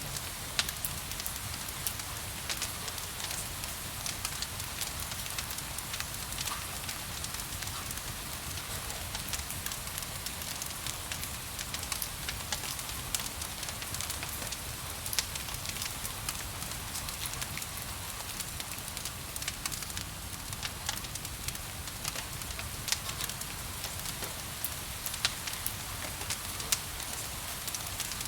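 Fireplace fire crackling, with frequent sharp pops scattered over a steady hiss of gentle rain and a low rumble.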